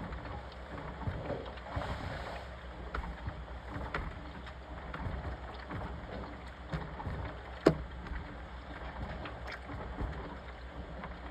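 Washing machine running: a steady low hum under a noisy wash sound, with scattered light knocks and one sharp click about two-thirds of the way through.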